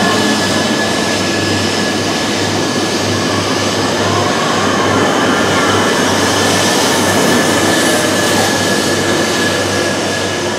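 JR East E3-700 series Shinkansen (GENBI SHINKANSEN) running along the station platform as it pulls away: a steady rumble of wheels and running gear with a constant high whine over it, fading slightly near the end as the last car passes.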